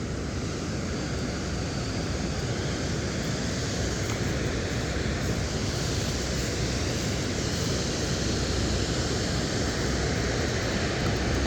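Waterfall running over the dam: a steady, unbroken rush of falling water.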